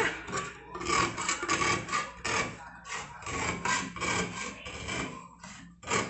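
A kitchen knife being worked around the lid of a metal can to cut it open: a series of irregular rasping, scraping strokes of blade on tin.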